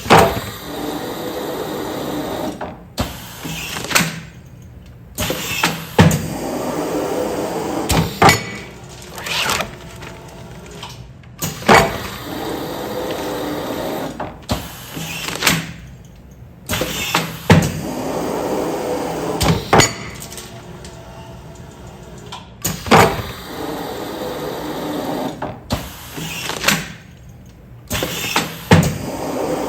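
Automatic container film-sealing machine running continuous sealing cycles, about one every six seconds. Each cycle is a few seconds of mechanism running, with sharp knocks and clicks as the press closes and opens.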